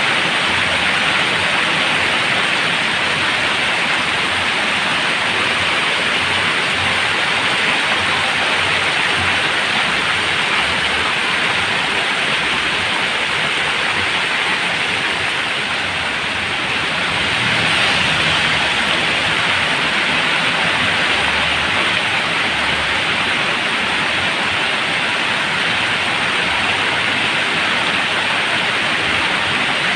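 Heavy rain falling steadily, a dense even hiss with a slight swell about two-thirds of the way through.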